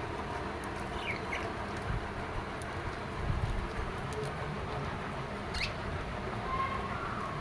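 Pet lovebirds making a few short, high chirps, with light scratchy taps and patter over a steady background hiss.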